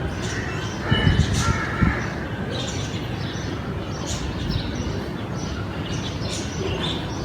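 Crows cawing a few times, loudest about a second in, over a steady background rumble of outdoor noise.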